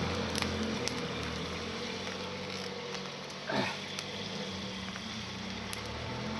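Small wood fire of twigs burning, with scattered sharp crackles and pops over a steady low hum. About halfway through, a brief falling squeal stands out.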